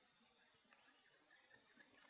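Near silence with faint high-pitched insect calls: a steady thin tone and a softly pulsing trill.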